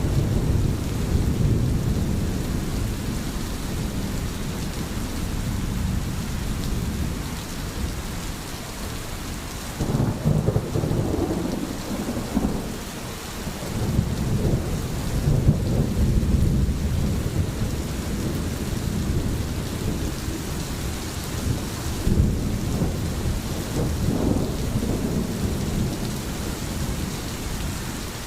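Steady rain with low rolling thunder that swells and fades several times, loudest about ten seconds in and again around fifteen seconds.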